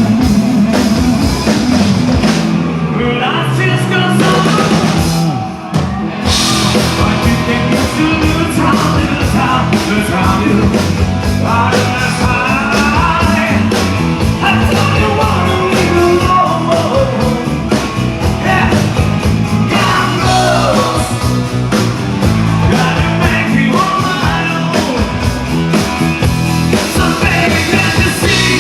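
Rock band playing live, with drum kit, electric guitar and a singer.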